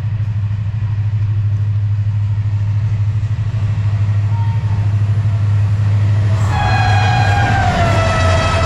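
Diesel locomotive approaching at the head of an express train, its engine drone growing steadily louder. About six and a half seconds in, its horn starts a long blast whose pitch drops slightly a second later as it keeps sounding.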